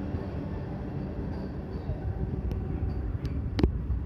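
Vande Bharat Express electric multiple-unit train running past on the rails: a steady low rumble with a few sharp clacks in the second half, the loudest about three and a half seconds in.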